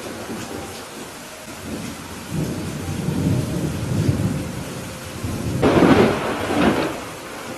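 Steady rain with rolling thunder: a low rumble builds about two seconds in, then a louder thunderclap rumbles near the end.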